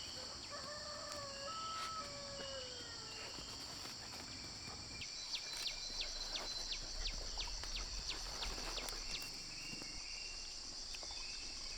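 Steady high chorus of crickets and other insects. A few whistled bird notes come early, then about five seconds in a quick string of short, high, downward chirps, about three or four a second, lasting around four seconds.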